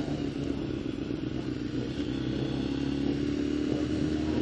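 Motorcycle engine running at low, even revs, its pitch rising a little about halfway through and then holding.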